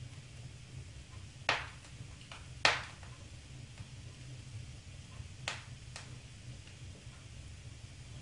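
Fire crackling in a fireplace: four sharp pops, the loudest about two and a half seconds in, over a low steady rumble.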